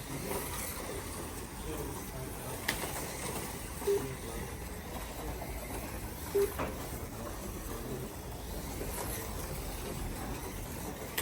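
Slot cars running around a raceway track, a steady whir against faint background talk. Two short single-pitch tones sound about four and six and a half seconds in.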